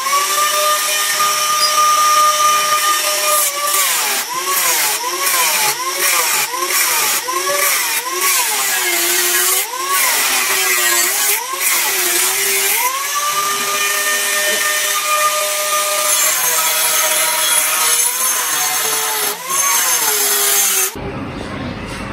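Handheld electric power tool whining at speed, its pitch dipping and recovering over and over as it is pushed into the work and eased off, as when drilling or cutting a metal plate. Near the end the sound cuts to a low rumbling noise.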